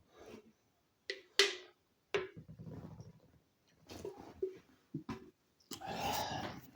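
Small dog barking off and on: several short, sharp barks, with a longer, broader noise near the end.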